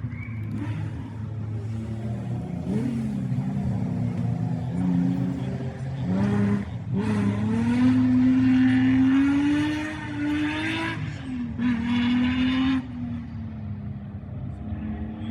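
Rally car engine revving hard as the car runs through a street stage. Its pitch climbs and drops several times, with a short break about six and a half seconds in and two more near the end.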